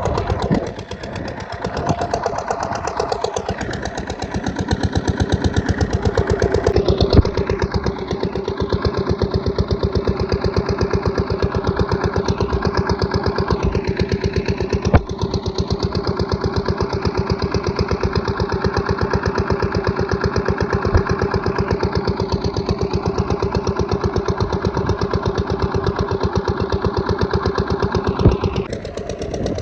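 Single-cylinder 8HP diesel pumpset engine running with an even chugging beat. It is a little uneven at first and settles into a steady note about seven seconds in.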